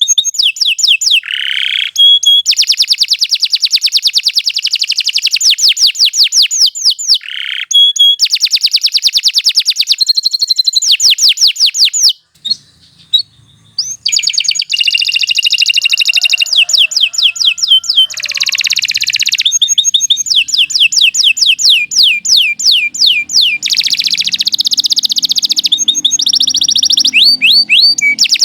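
Domestic canary singing a long continuous song of fast trills and whistled rolls, with a pause of about a second and a half about twelve seconds in.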